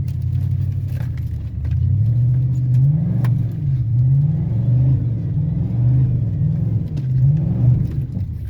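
Pickup truck engine revving up, then rising and falling in pitch about four times as it is driven under changing throttle, with faint rattles and clicks over it.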